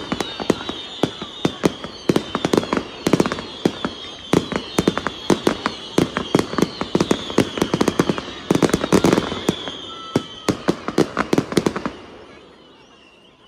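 Fireworks going off in a rapid, dense string of sharp bangs and crackles, several a second, with a steady high-pitched tone underneath. The barrage stops abruptly about twelve seconds in.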